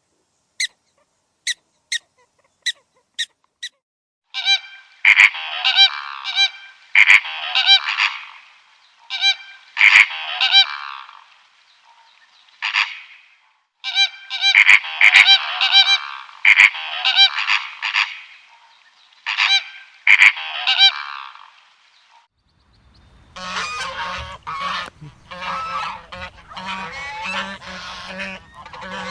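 Goose honking in repeated bouts of loud calls, after a few short high blips at the start. Near the end the calls turn denser and noisier over a low hum.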